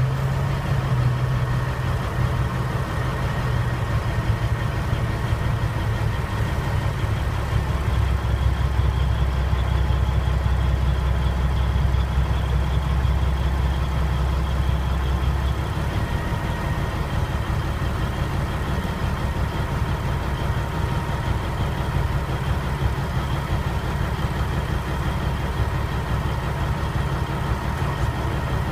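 1985 Peterbilt 359 diesel engine running steadily while the truck is driven. Its low note drops about a quarter of the way in and shifts again a little past halfway.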